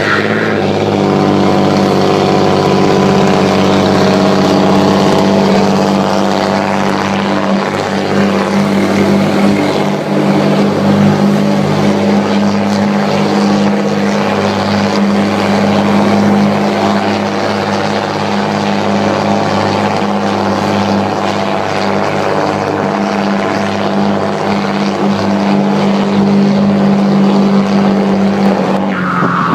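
Diesel truck engine running at a steady speed through a straight-through stainless-steel exhaust, a loud, even drone that holds one pitch throughout.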